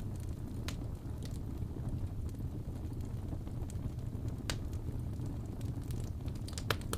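Fire in a fireplace burning with a steady low rumble and scattered sharp crackles and pops, the loudest a quick pair near the end.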